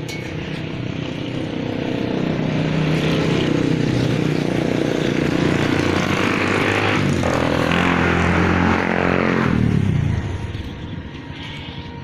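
Motor vehicle engine running close by, getting louder over the first couple of seconds, climbing in pitch around the middle, then dropping in pitch and fading away about ten seconds in.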